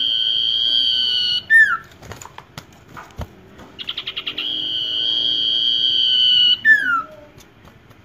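Common iora (sirtu) singing. A long steady high whistle breaks off about a second and a half in with a few sharp falling notes. After a pause of about two seconds with a few faint knocks, the phrase comes again: a quick stutter of notes runs into another steady whistle of about two seconds, which again ends in falling notes.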